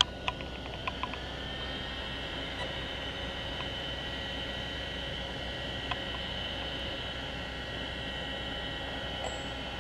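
Steady high-pitched whine of small electric cooling fans on an RC truck's motor, settling to an even pitch about a second in over a hiss. A few light clicks come near the start.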